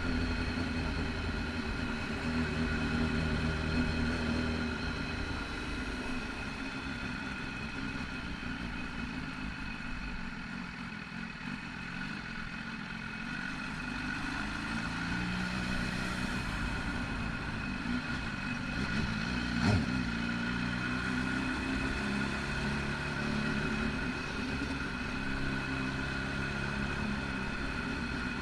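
BMW S1000RR's inline-four engine running under way, its pitch rising and falling with the throttle, quieter for a few seconds near the middle. A single sharp click about twenty seconds in.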